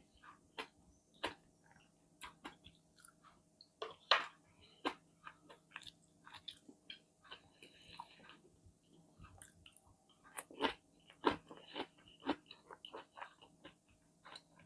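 A person chewing and biting food with irregular small crunches and wet clicks, busier about four seconds in and again from about ten to thirteen seconds.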